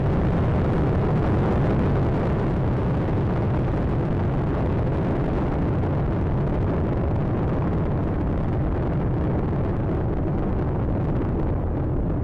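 Space Shuttle Atlantis's solid rocket boosters and three main engines firing during its climb after liftoff: a steady, loud, low rumble, its higher pitches thinning slightly near the end.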